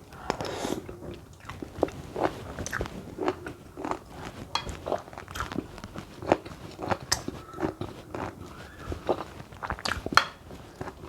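Close-miked chewing and mouth sounds of someone eating plantain (matoke) porridge: irregular short clicks and smacks.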